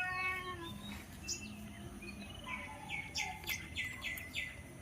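A bird chirping: a run of about seven quick, high, descending chirps in the second half, after a short pitched call right at the start.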